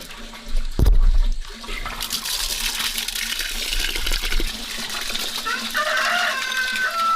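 A rooster crows near the end, one drawn-out call that falls slightly in pitch, over a steady rushing hiss. A heavy low thump comes about a second in and is the loudest sound.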